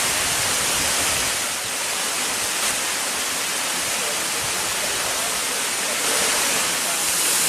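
Waterfall pouring into a river pool: a steady, loud rush of falling water, swelling a little near the end.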